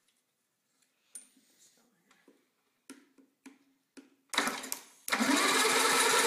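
Small lawnmower engine being pull-started: a few faint clicks, then about four seconds in it fires with a loud burst and from about five seconds it runs loudly for a couple of seconds. The men take its trouble starting for a flooded engine.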